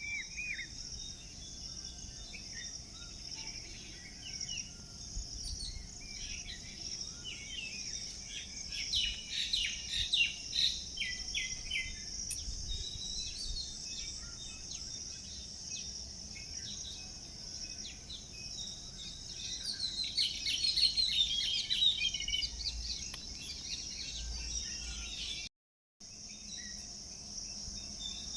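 Outdoor ambience of a steady, high insect drone, like crickets, with small birds chirping and trilling over it, the birds busiest twice. The sound cuts out briefly near the end and then resumes.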